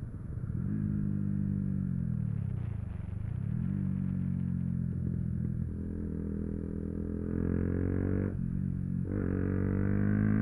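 Yamaha YZF-R125's 125cc single-cylinder four-stroke engine running under way, its pitch rising and falling as the rider works the throttle through the gears, with a brief drop in the engine note about eight seconds in, as at a gear change or throttle lift.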